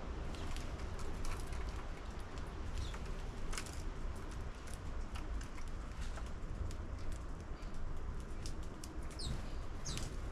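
Sparrows at a bird feeder: a few short high chirps over many small sharp clicks and taps, with a steady low rumble underneath.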